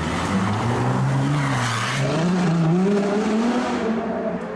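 Ferrari LaFerrari's V12 engine accelerating away, its pitch climbing, dropping at a gear change and climbing again. There is a short burst of hiss about a second and a half in.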